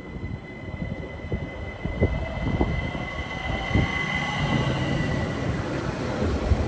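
A train approaching on the line, growing louder, its wheels knocking irregularly over rail joints, with a thin steady high tone over a low hum.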